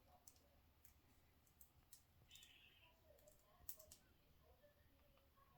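Faint, sharp clicks of a budgie's beak pecking at seeds on a hard floor, with a short soft budgie chirp about two and a half seconds in.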